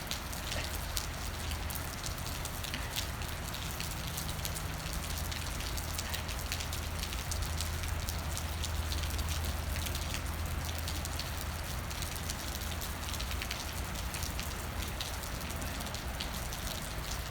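Steady rain falling, with many individual drops ticking sharply on a nearby surface over a low steady rumble.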